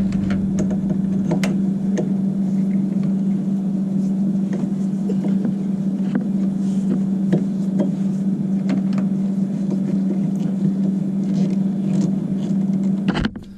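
A steady, loud machine hum of unidentified source, with scattered light clicks and taps of hand-tool work on the water heater element's ground wire. The hum cuts off suddenly near the end.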